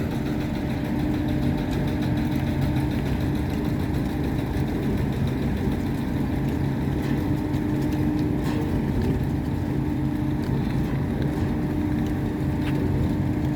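A boat engine running at a steady, even speed, a constant low hum with water and wind noise beneath it.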